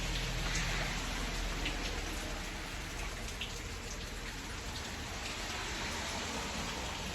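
Steady rainfall, with a few individual drops ticking now and then.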